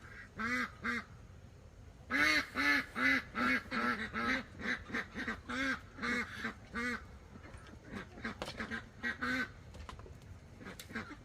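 Domestic fowl calling in a rapid series of short, repeated calls, about two or three a second. They are loudest a couple of seconds in and grow fainter over the last few seconds.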